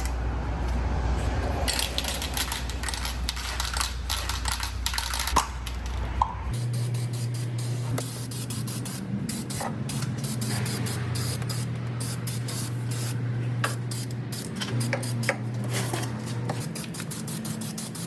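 Aerosol spray-paint can hissing in many short, repeated sprays, over background music.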